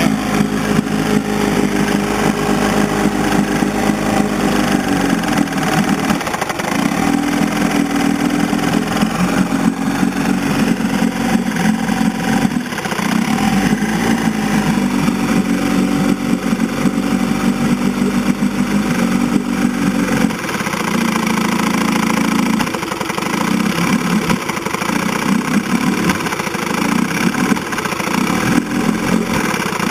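1960 Evinrude 10 hp Sportwin two-cylinder two-stroke outboard motor running unevenly, its note shifting a few times and turning choppy in the last third. It is the rough running of an engine that will not idle smoothly and is smooth only when revved up.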